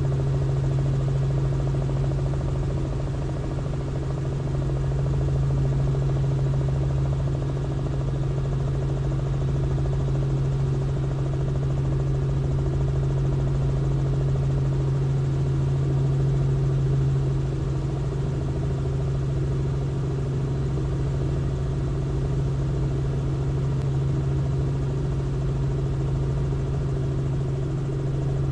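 Robinson R44 helicopter in flight: a steady drone of engine and rotors with a strong low hum and fainter higher tones above it.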